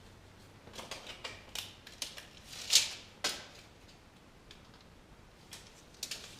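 A string of light clicks and scrapes, like small objects or tools being handled, loudest about two and a half seconds in, then a few faint clicks near the end.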